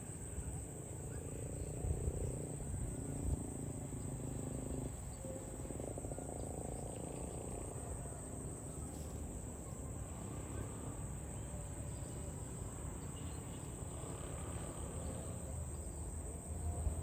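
Crickets chirping in a steady, unbroken high-pitched drone, over a low rumble.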